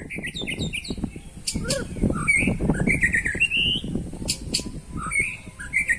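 Several caged contest songbirds, white-rumped shamas and greater green leafbirds, singing at once in quick, varied chirps and whistled phrases, over a low rumble of background noise.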